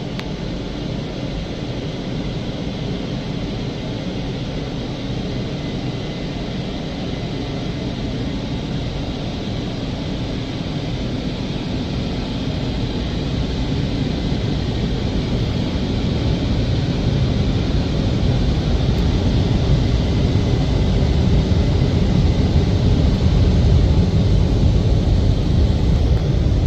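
WashTec SoftCare 2 Pro touchless car wash's FlexStream roof dryer and side dryers blowing, a steady rush of air and fan motor noise that grows louder through the second half as the dryer moves closer.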